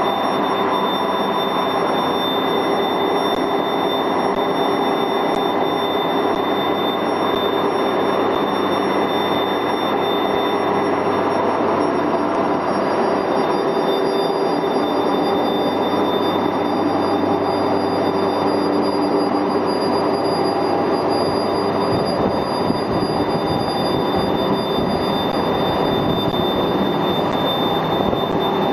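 T2180 deep hole drilling and boring machine running steadily: a dense, even machine noise with a steady high whine over it.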